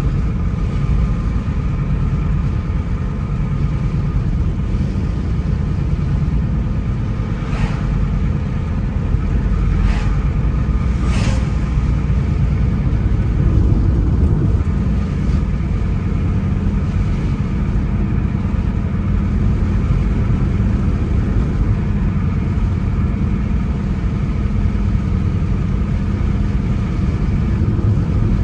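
A car driving along a road: a steady low rumble of engine and tyre noise, with a few brief faint ticks around the middle.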